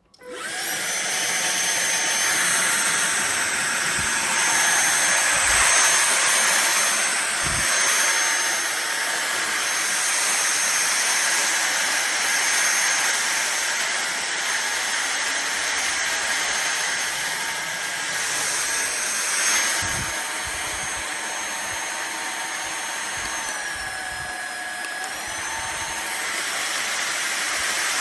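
Fieety 45kPa/550W cordless stick vacuum switched on and running: a steady high motor whine over rushing air. The whine's pitch dips briefly and comes back up near the end, and a few dull knocks sound along the way.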